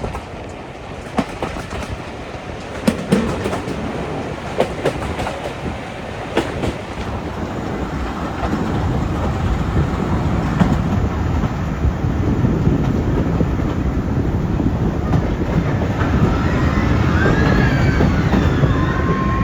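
Heritage steam train running on the rails: scattered sharp clicks of wheels over rail joints, then a low rumble that grows steadily louder, with high wavering wheel squeals in the last few seconds.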